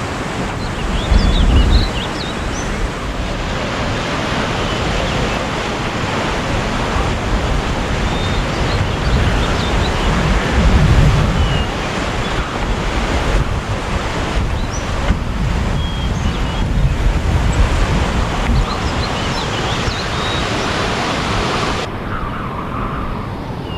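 Steady rushing of a river, with wind buffeting the microphone about a second in and again around ten seconds. Small high chirps come and go over it. Near the end the hiss suddenly thins out.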